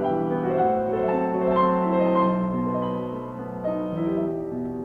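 Piano accompaniment playing a short instrumental interlude between the sung lines of a Ukrainian folk-song arrangement, a series of sustained chords with no voice.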